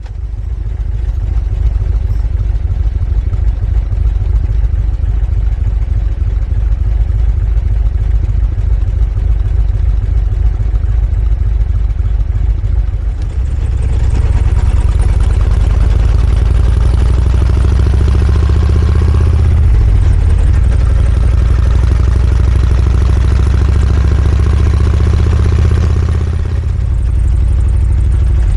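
Sidecar motorcycle engine running with a steady low rumble; about thirteen seconds in it gets louder, with a broad rushing noise added over it.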